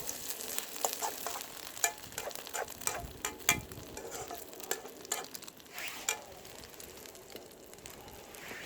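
Egg and green-onion batter sizzling in an oiled frying pan, with many sharp clicks and taps over the first six seconds or so, thinning out towards the end.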